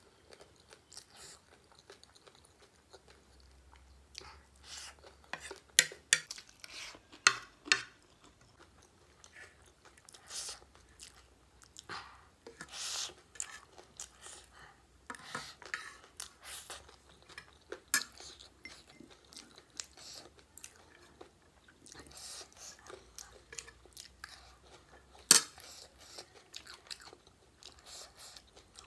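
Close-up mouth sounds of chewing spicy wet chatpate (spiced puffed-rice mix). These are broken by sharp clinks and scrapes of a metal spoon on a ceramic plate, several close together a few seconds in and the loudest late on.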